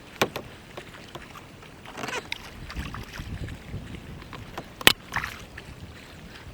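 Water splashing and sloshing around a fishing kayak, with a few sharp knocks, the loudest about five seconds in, while a hooked bass is fought close to the boat.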